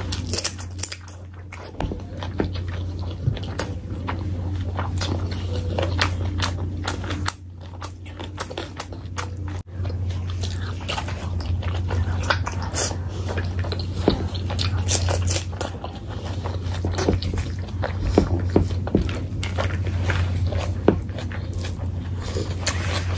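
Close-miked chewing and biting of chicken, egg curry and rice eaten by hand, full of short mouth clicks and smacks, over a steady low hum.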